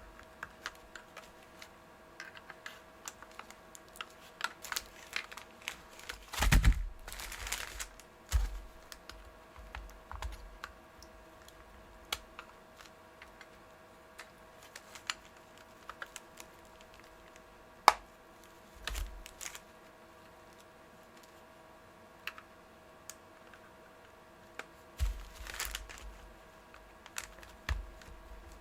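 Scattered clicks and light knocks of plastic parts being handled as a vacuum cleaner's rotating-brush head is taken apart, with a louder scraping rustle about six seconds in and another near the end.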